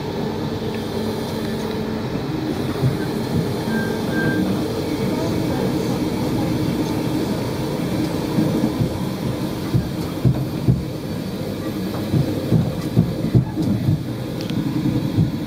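Inside a moving passenger train carriage: a steady rumble of wheels on the track. From the middle on, irregular low thumps and jolts are heard.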